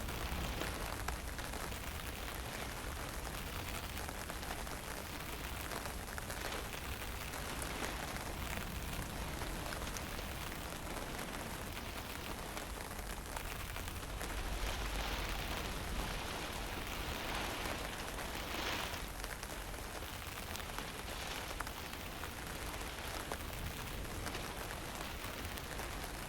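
Steady wind with a fine drizzle falling: an even hiss over a deep low rumble, swelling a little about two thirds of the way through.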